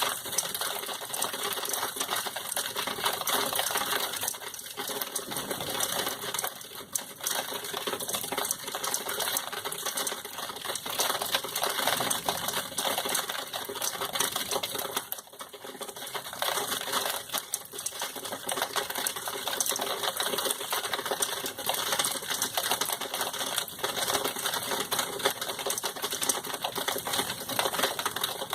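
Rain falling steadily: a dense, continuous patter of countless small drops striking hard surfaces.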